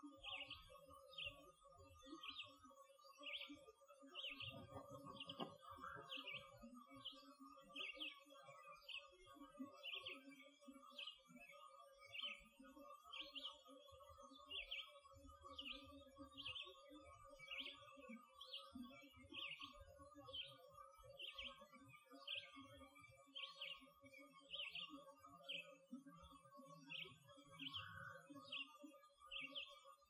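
Faint songbird giving short high notes over and over, about one and a half a second, over a steady faint hum and irregular low rumbling.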